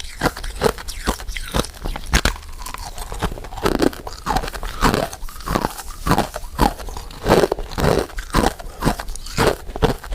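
Person chewing and biting powder-coated mint sweets: a dense, irregular run of crunching and mouth clicks, several a second.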